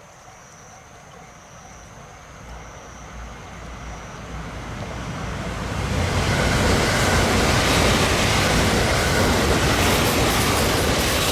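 A train on the JR Hokuriku Main Line approaching and passing close by: a rumble that grows steadily louder for about six seconds, then a loud steady rush of wheel and rail noise as the train goes past.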